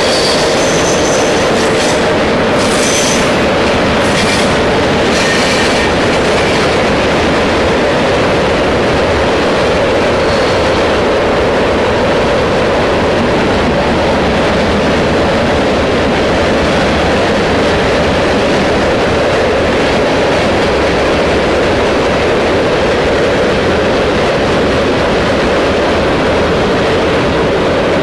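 Freight train rolling steadily past, its steel wheels running loud on the rail. Brief high wheel squeals sound during the first several seconds.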